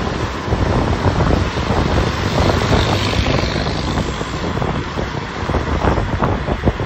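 Wind buffeting the microphone over the steady rumble of a moving vehicle, with no horn sounding.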